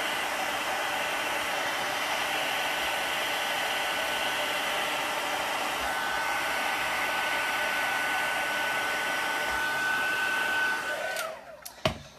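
Crafter's heat gun blowing steadily with a high whine, drying blended ink on a card. About eleven seconds in it switches off, the whine falling in pitch as the fan winds down, followed by a couple of sharp clicks.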